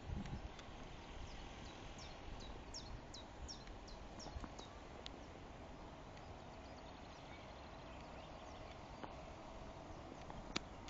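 A songbird singing a run of quick, descending whistled notes, starting about two seconds in and lasting a couple of seconds, over a faint, steady outdoor background hiss. A brief low rumble at the very start.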